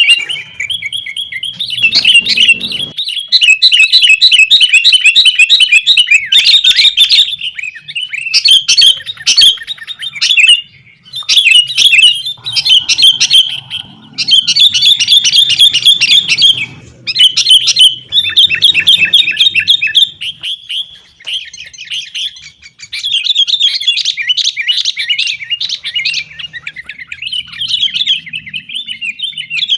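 Sooty-headed bulbuls calling loudly in fast, rapid-fire chirping phrases with short breaks between them, the agitated 'fighting' chatter used as a lure to get caged bulbuls singing.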